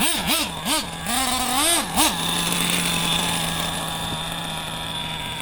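Nitro RC truck's small .28 glow engine blipped through about five quick revs in the first two seconds, then settling into a steady idle.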